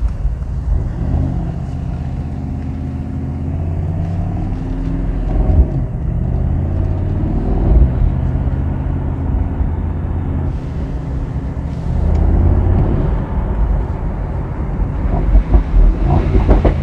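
Mercedes-AMG SL63's twin-turbo V8 under way, its engine note rising and falling in pitch as it accelerates and shifts gear, loudest around the middle. A quick series of sharp cracks comes from the exhaust near the end.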